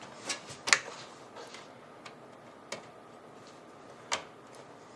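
A few scattered sharp clicks and small knocks of PC power-cable connectors being handled and pushed into a graphics card, the loudest a little under a second in.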